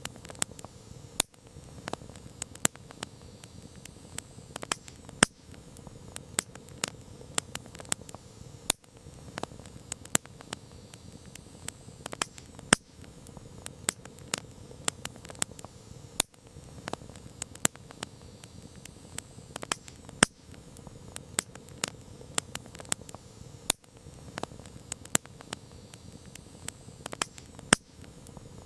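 Wood campfire crackling: irregular sharp pops and snaps, several a second and some much louder than others, over a soft low rush of burning.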